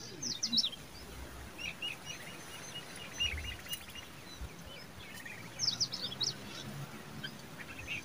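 Bird calls: a cluster of sharp, quickly falling high notes about half a second in and again near six seconds, with a fast run of repeated chirps in between.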